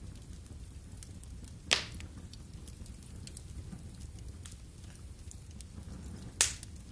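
Wood fire in a fireplace crackling, with a low rumble and scattered small snaps, and two loud sharp pops, one about two seconds in and one near the end.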